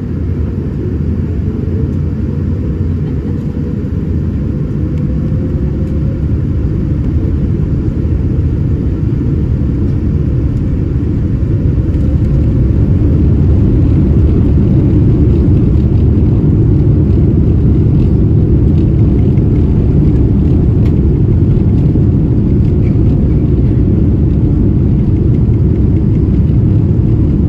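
Boeing 787-9 cabin rumble, most likely during the take-off roll. The deep engine and runway rumble builds over about the first fourteen seconds, then holds steady and loud.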